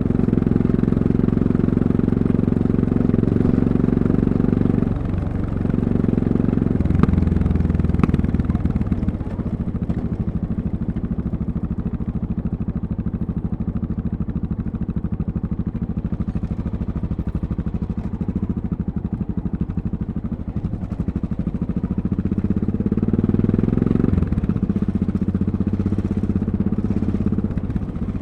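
Single-cylinder engine of a Yamaha MT-03 660 motorcycle running under way, close up. Its note dips and picks up again several times, and through the middle it sits at low revs, its firing pulses steady and even.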